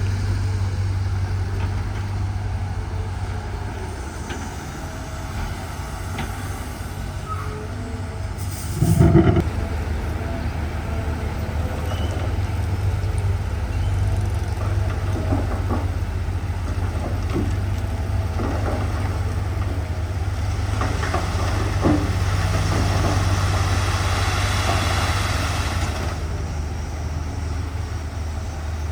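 Heavy diesel earthmoving machinery running steadily with a deep engine drone, with a loud metallic clank about nine seconds in and scattered lighter knocks later. A brighter hissing noise rises over the engine from about twenty to twenty-six seconds.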